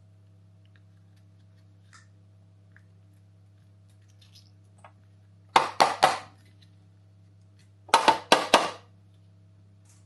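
Hard objects knocking together: two quick sets of three sharp clattering knocks, about two seconds apart, over a steady low hum.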